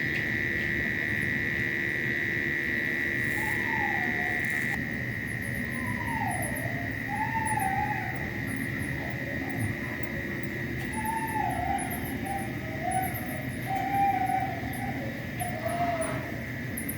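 Night-time outdoor animal chorus: a steady shrill insect drone that drops back about five seconds in, with rapid high ticking, overlaid from about four seconds in by a series of short wavering, rising-and-falling calls from another animal.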